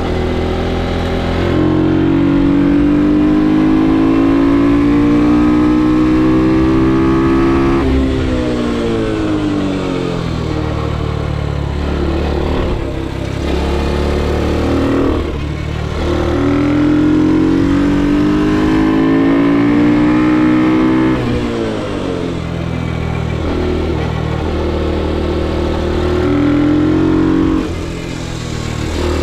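Ohvale GP2 110 minibike's single-cylinder four-stroke engine heard onboard, pulling hard with its pitch climbing steadily. The note drops sharply as the throttle shuts for a corner, then climbs again; this happens three times.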